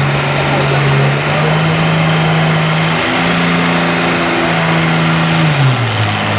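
Super stock pulling tractor's engine running hard under load, its pitch stepping up twice and then dropping near the end.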